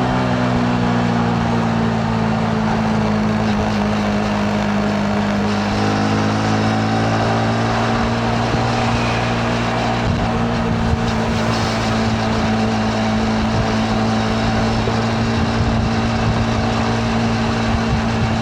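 Yamaha MT-15's single-cylinder engine running at a steady cruise, its pitch easing slightly at the start and then holding even, with wind and road noise.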